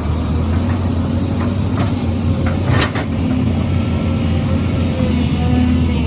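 Heavy diesel construction machine engine running steadily at a low, even pitch, with a few light knocks and a short hiss about three seconds in.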